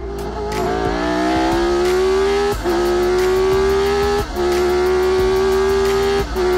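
Car engine accelerating through the gears: its pitch climbs steadily, then dips briefly and picks up again at each of three upshifts, about two and a half, four and a quarter, and six and a quarter seconds in.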